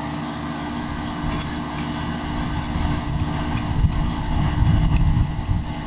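Steady low mechanical hum with a low rumble that swells in the middle, and a few faint light ticks as the throttle cable and its clamp are handled on the mower engine.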